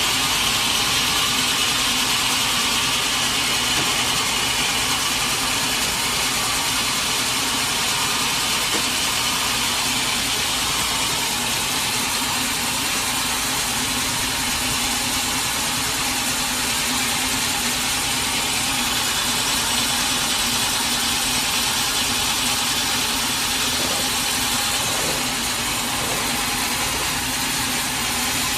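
Sawmill machinery running steadily: a continuous mechanical hum with a broad hiss and no change in pace.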